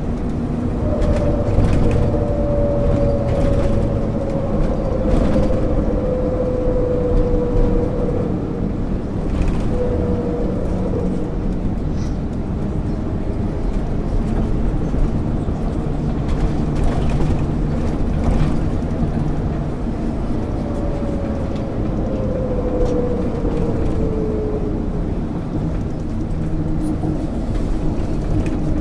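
MAN ÜL 353 bus driving, heard as a steady engine and road rumble. A whine falls slowly in pitch twice, once in the first few seconds and again about two-thirds of the way through.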